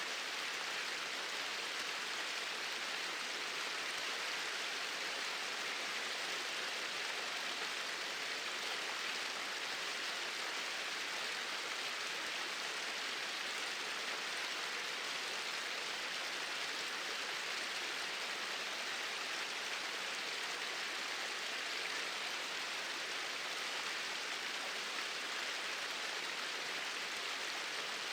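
Small waterfall pouring in a straight flow, a steady, even rush of water with no change.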